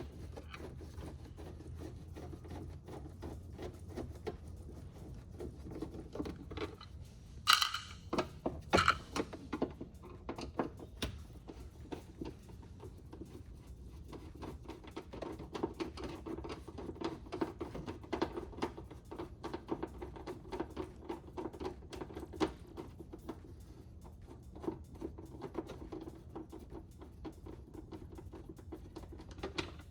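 Screwdriver turning screws out of a van's plastic door panel: quick faint clicking and scraping, with two louder clatters of tool or parts about a quarter of the way in.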